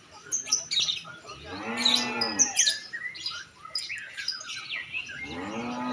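Lovebirds chirping in quick sharp notes throughout. A long, low, moo-like call, rising and then falling in pitch, sounds about two seconds in and again near the end.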